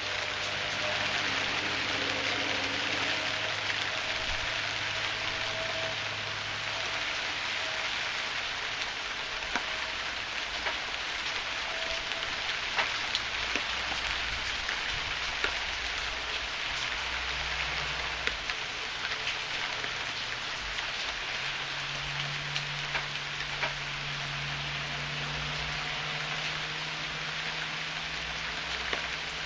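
Heavy rain falling steadily, a dense hiss with many individual drops ticking through it.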